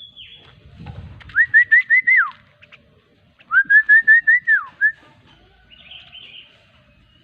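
Whistling: two runs of quick, clear, rising whistled notes, five or six to a run, each run ending in a falling glide. A low thump comes about a second in.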